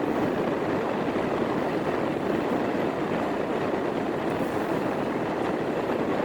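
Steady road and tyre noise from a moving car, heard from inside the cabin, with tyres hissing on wet pavement.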